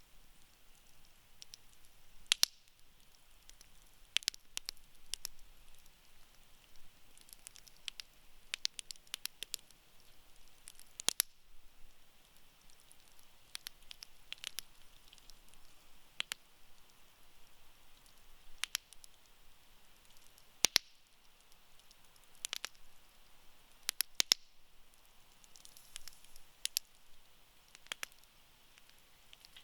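Wood campfire crackling: irregular sharp pops and snaps, a few of them much louder, over a faint steady hiss of burning wood.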